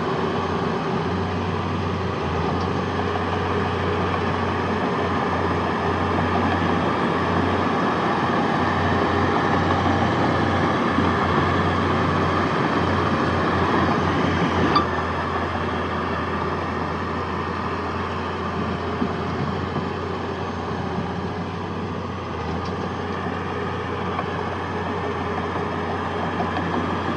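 Heavy diesel engine of earthmoving machinery running steadily under load, with a low hum throughout. A single sharp click comes about halfway through, after which the engine runs a little quieter.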